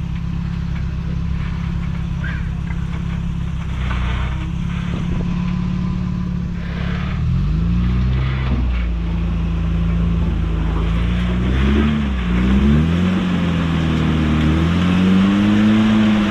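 Off-road truck engine running steadily at low revs, then from about halfway revving up and down again and again as the truck crawls over rocks under load.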